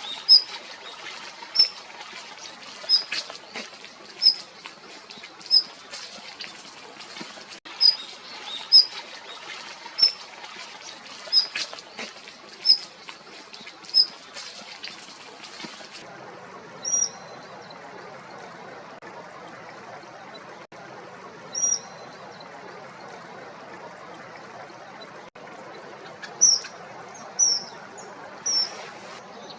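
Daurian redstart calling: short, high, single whistled notes repeated about every second and a half, with faint clicks between them. About 16 s in this gives way to a common kingfisher's sharp, high, piping calls, a few spread out and then several close together near the end, over a faint steady hiss.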